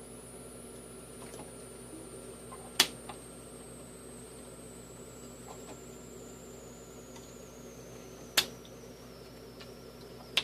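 Two sharp clacks of playing cards put down on a tabletop, about three seconds in and again just past eight seconds, over a steady room hum and a faint high whine that slowly falls in pitch.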